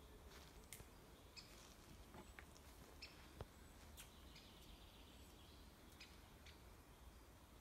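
Near silence of a woodland, with faint short bird chirps every second or so over a low rumble.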